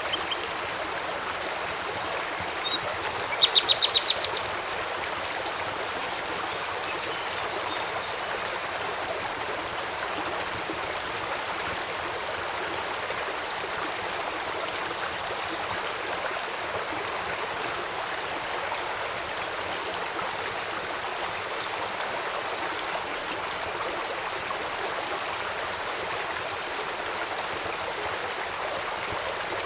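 Steady rush of flowing river water. About three seconds in, a bird gives a short, loud run of quick chirps, and a faint high chirp repeats about once a second through the middle.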